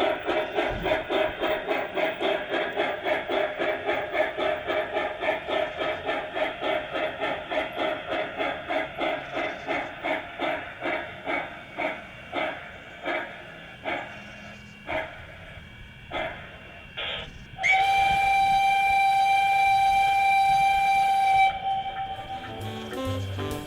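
O-gauge model SNCF 141R steam locomotive chuffing at a steady beat that gradually slows and fades to a few single chuffs as it comes to a stop. Its whistle then blows once for about four seconds.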